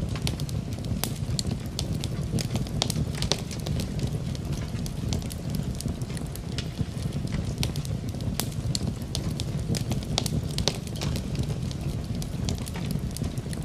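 Wood fire in a fireplace crackling, with frequent irregular sharp pops and snaps over a steady low rushing background.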